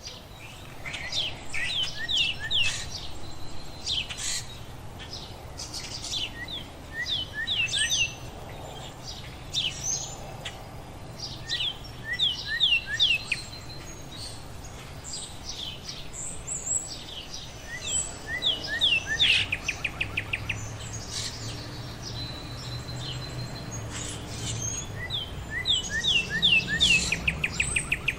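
Small songbirds chirping: short, sharp, high chirps in quick groups of three or four, with a fast, even trill twice, over a low background rumble.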